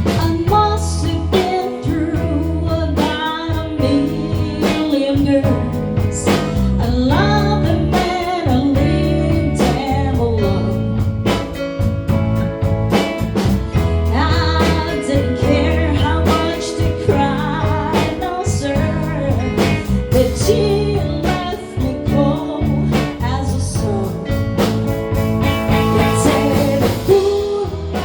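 Live band playing a song, with a lead singer over guitar and drums.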